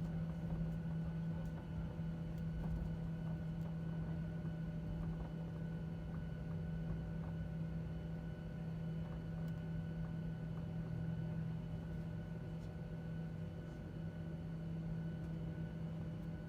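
Steady cabin drone inside a Boeing 737-900ER on the ground after landing: a constant low hum with fainter higher tones over a low rumble, unchanging throughout.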